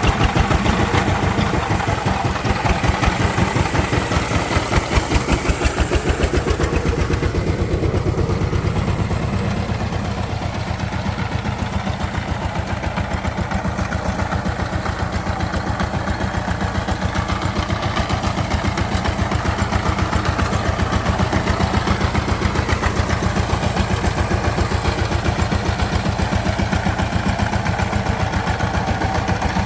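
Diesel engine of a power tiller idling with an even, rapid chugging, a little quieter for a stretch in the middle.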